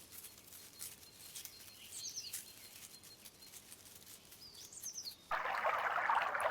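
Rainforest ambience: a bird repeats a short, high call about every two and a half seconds over faint scattered clicks. About five seconds in, a louder rush of running water starts.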